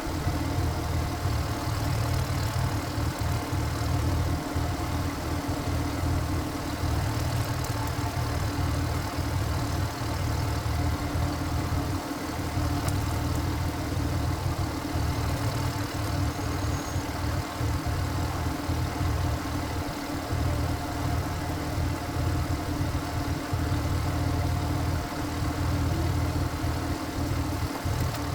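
Walking tractor's single-cylinder diesel engine running steadily at an even speed, with a constant low chugging hum.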